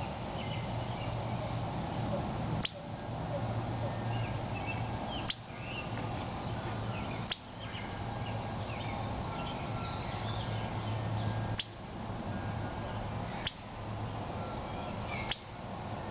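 Outdoor ambience: faint birds chirping over a steady low hum, broken by about six sharp clicks spaced two to four seconds apart.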